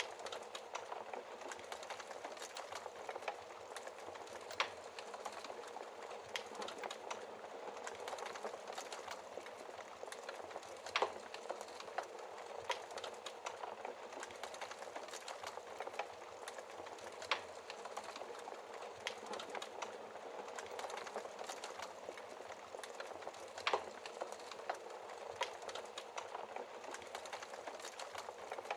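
Wood fire in a fireplace crackling: a steady hiss of burning logs with frequent small irregular snaps and a few louder pops.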